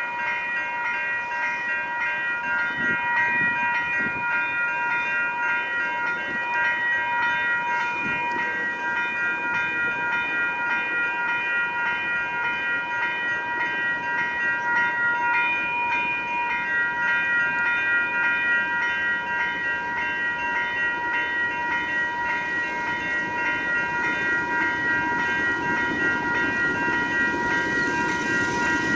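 Canadian Pacific diesel freight train approaching, its low rumble growing over the last several seconds. A steady high-pitched ringing of several tones runs throughout.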